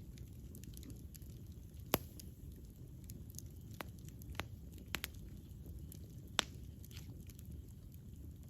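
Campfire burning: a low steady rumble of flames with scattered sharp crackles and pops, the loudest pops about two seconds in and again about six seconds in.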